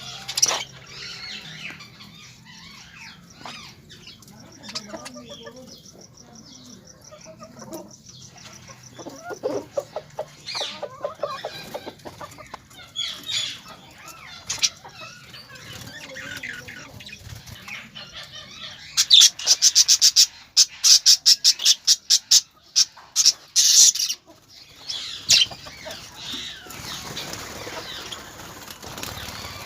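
Birds calling in short pitched notes, then a rapid run of loud wing flaps from about two-thirds of the way in.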